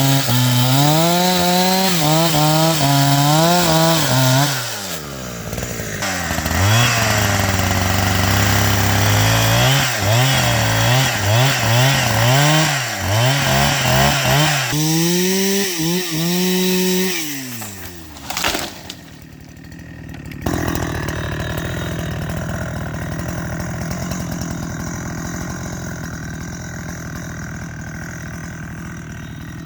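Chainsaw cutting wood, its engine pitch rising and sagging repeatedly as the chain bites and frees. About seventeen seconds in the engine winds down, a short sharp crack follows, and after a brief lull a steadier, quieter noise runs on.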